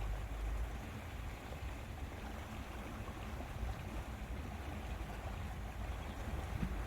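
Steady lakeside ambience of wind and water, with a low rumble of wind buffeting the microphone.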